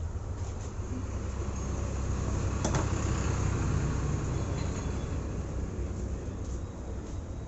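Honda CB Trigger single-cylinder motorcycle engine running with the abnormal engine noise that is the fault being shown. The running gets a little louder about two to four seconds in, with a single sharp click close to three seconds.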